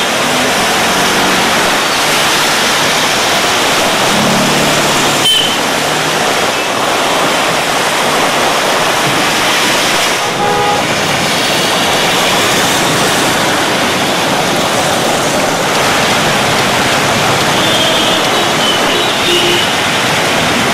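Heavy rain pouring on a city road with traffic passing through it, tyres hissing on the wet tarmac, and a few short car-horn toots.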